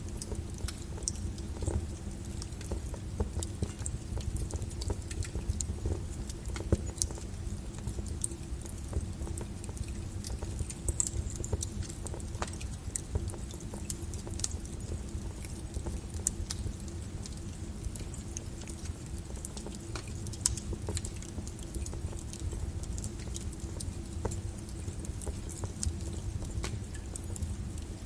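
Wood fire crackling, with many scattered sharp pops and snaps over a steady low rumble, layered with steady rain.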